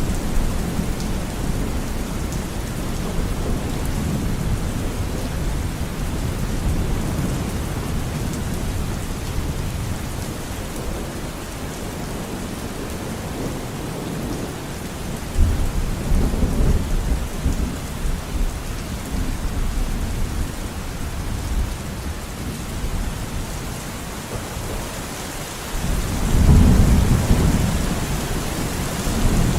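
Steady rain falling in a forest, with low rolls of distant thunder: one rumble about halfway through and a louder, longer one near the end.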